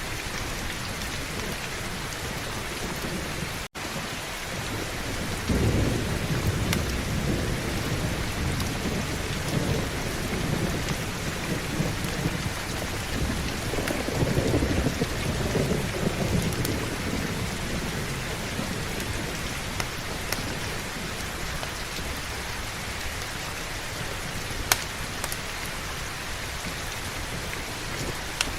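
Heavy, steady rain with rolling thunder. A low rumble builds about five seconds in, a second roll swells around the middle, and both fade away in the second half. The rain cuts out for an instant near the start.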